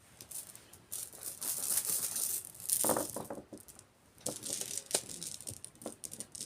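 Rune pieces rattling and clicking against each other as they are shaken and shuffled for a reading, denser for the first few seconds, then scattered clicks.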